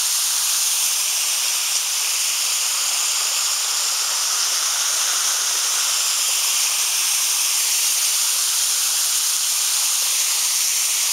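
Waterfall falling into its plunge pool: a steady, high rushing noise of water that holds an even level throughout.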